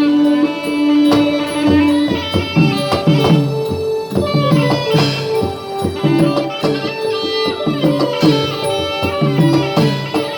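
Traditional southern Thai Nora (Manora) ensemble music: a long held note gives way about two seconds in to a quick rhythm of pitched hand-drum strokes under a melody.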